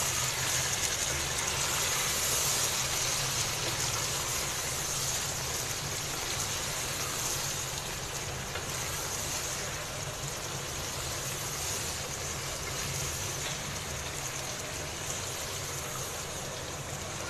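Chicken pieces sizzling steadily in ghee in a wok as they are stirred with a wooden spatula, the bhuna stage of a chicken karahi, over a low steady hum.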